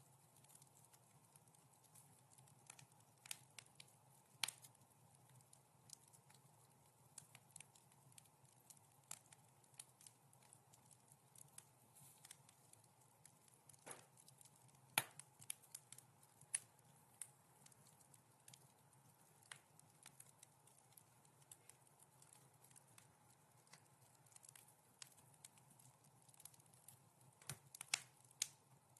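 Wood fire crackling softly, a steady scatter of small irregular pops and snaps, with a louder pop about halfway through and a quick cluster of pops near the end.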